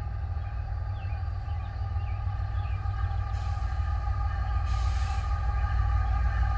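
Norfolk Southern freight train drawing near: the low rumble of its diesel locomotives grows steadily louder, with several steady tones held above it.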